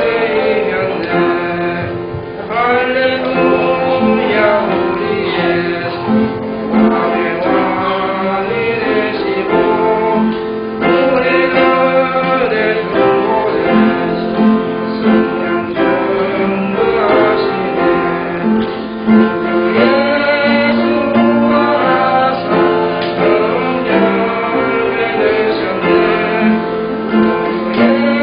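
Congregational praise singing with guitar accompaniment: voices singing a hymn tune over steady plucked or strummed chords.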